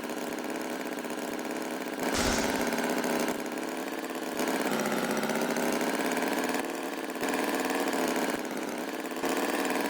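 Steady buzzing engine-like drone that steps up and down in loudness every second or two.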